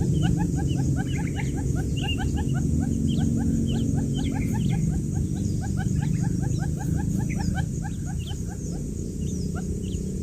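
A crowd of newly hatched quail chicks peeping: many short, falling chirps overlapping several times a second. A steady low hum runs underneath.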